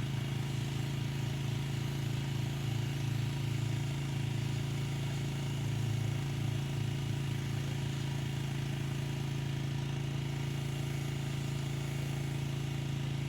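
Pressure washer running with a steady engine hum, the same level throughout.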